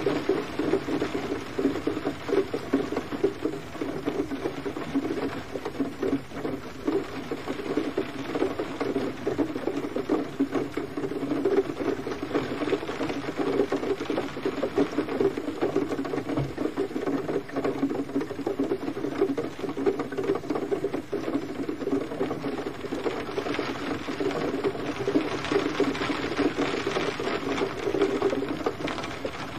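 Gentle rain falling steadily, a dense even patter of many small drops.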